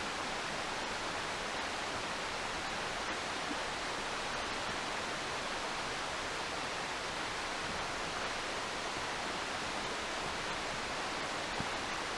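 Steady rushing of water at a waterfall, the river swollen with rain.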